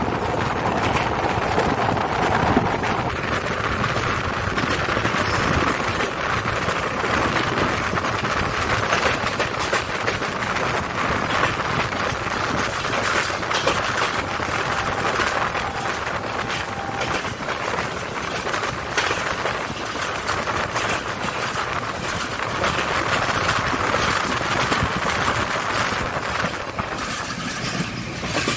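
Passenger train running at speed, heard from beside an open coach door: a steady rush of wind and wheel noise with a dense, continuous rattle of clicks from the wheels on the rails.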